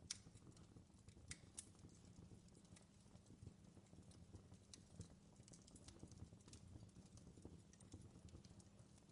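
Faint crackling of a wood fire in a fireplace: irregular small pops and snaps over a low, steady rumble.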